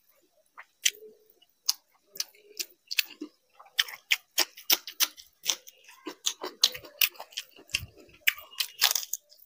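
Close-up mouth sounds of a person eating: wet smacking and chewing clicks, scattered at first, then coming thick and fast from about four seconds in as a raw green chilli is bitten and chewed.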